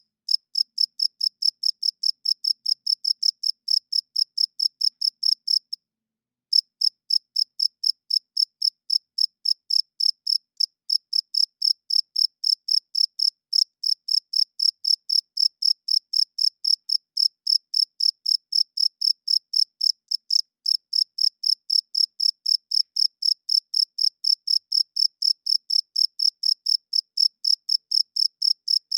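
Cricket chirping: a rapid, even run of high-pitched chirps, about four a second, starting suddenly and breaking off briefly about six seconds in before carrying on.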